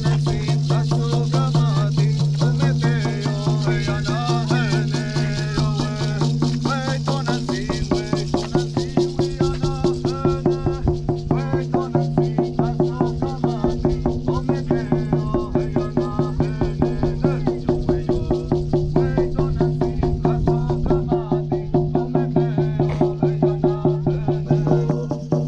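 Native American drum-and-song performance: a steady drumbeat of about four beats a second under singing voices over a held low tone, with rattles in the mix.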